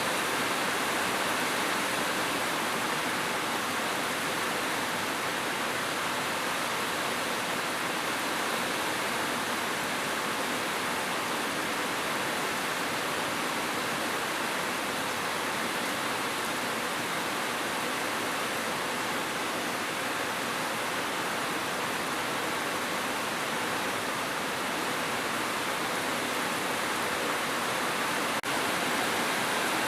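Steady heavy rain falling, an even, unbroken hiss with a momentary dip in level near the end.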